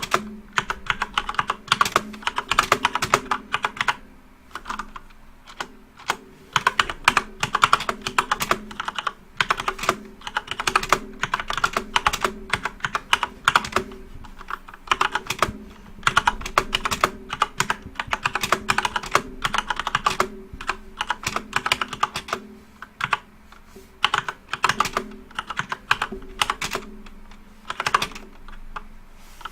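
Light-up computer keyboard being typed on quickly, in bursts of rapid key clicks with short pauses between them.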